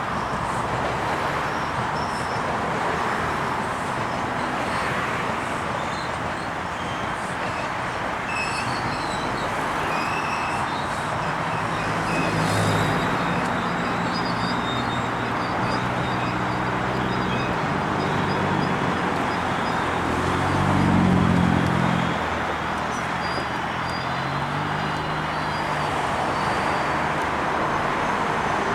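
GO Transit diesel train running through the station: a steady broad rumble with a low engine drone that swells to its loudest about three-quarters of the way through.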